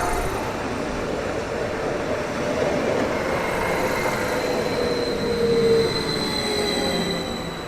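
Train running along the track: a steady rolling rumble with thin whining tones that slowly fall in pitch, easing off near the end.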